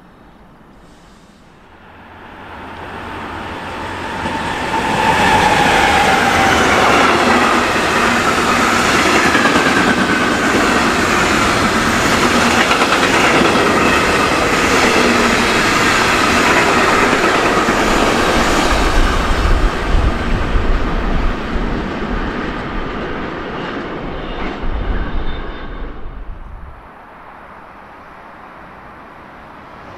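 A long freight train of tank wagons and open wagons rolls past, its wheels clattering over the rails with a faint high screech. The noise builds over the first few seconds, holds loud for some fifteen seconds, then dies away as the last wagons pass, cutting off sharply a few seconds before the end.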